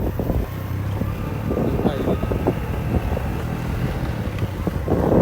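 Steady low engine rumble of a vehicle with some wind noise.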